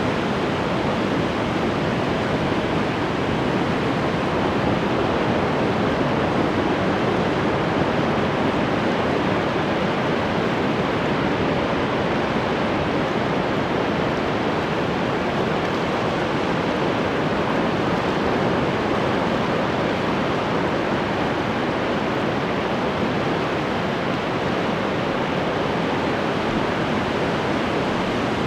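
Ocean surf washing in, a steady wash of breaking waves with no separate crashes standing out.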